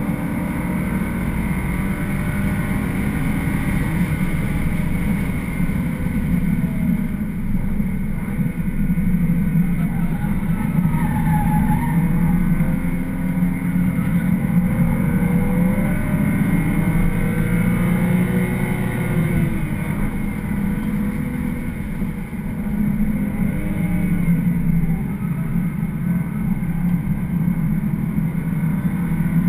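Cabin sound of a BMW 335xi's twin-turbocharged straight-six being driven hard. The engine note rises and falls several times through gear changes and corners, over steady road and wind noise.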